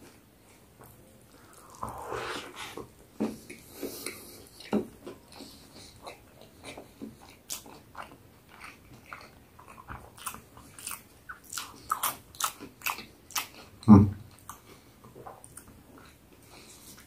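Close-up eating sounds of a fried-chicken burger being bitten and chewed: a run of crisp, crunchy clicks as the crispy chicken fillet and bun are chewed, with one loud thump about fourteen seconds in.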